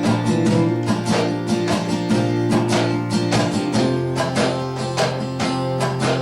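Acoustic country band playing the instrumental lead-in of a song: strummed acoustic guitar in a steady rhythm over held bass notes, the chords changing a little over halfway through.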